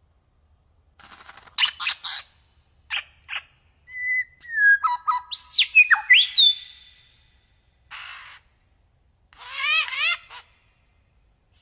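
A songbird singing in separate phrases: harsh rasping notes first, then clear whistles that glide up and down in pitch, and near the end a rasp followed by a quick run of rising notes.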